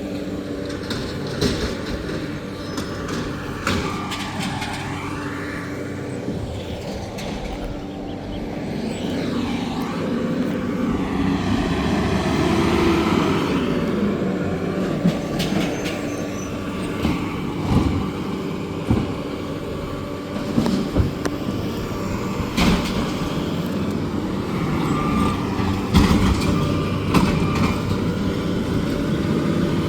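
Garbage truck running while collecting trash, its engine pitch falling and rising several times. Sharp knocks and clanks come several times in the second half.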